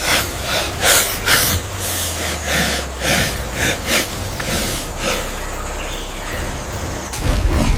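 Sound effects of a honey badger fighting a king cobra: a quick run of sharp, breathy huffs and hisses, two or three a second, that settles about five seconds in into a steadier hissing, over a low rumble.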